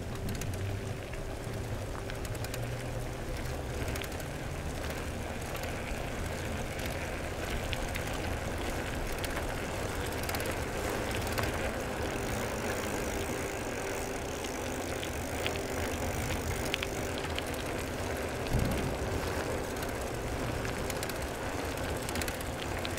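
Engine of a slow-moving follow vehicle running steadily, with road noise and a faint constant hum. A brief low thump comes late on.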